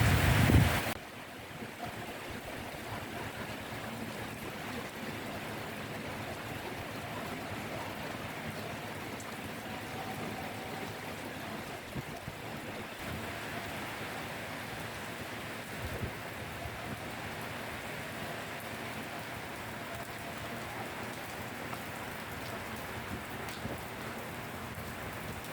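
Steady rain falling, an even rushing hiss with a few faint drip ticks. A louder, fuller rush of noise cuts off about a second in.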